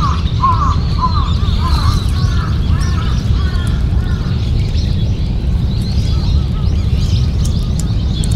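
A bird calling over and over, about two short calls a second, growing fainter and dying out about four seconds in. Fainter high chirps of small birds run throughout, over a steady low rumble.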